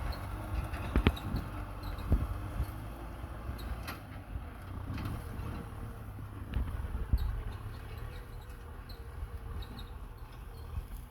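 Kubota M6040SU tractor's diesel engine running steadily under load, with a few thumps about one, two and seven seconds in.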